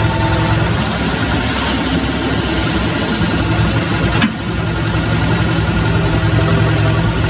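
An engine running steadily at idle, a low even drone, with one short click about four seconds in.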